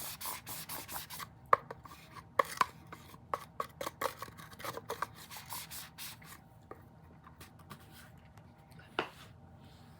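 Fluid being squished and worked by hand: a quick run of short clicks and pops for about six seconds, then one more pop near the end.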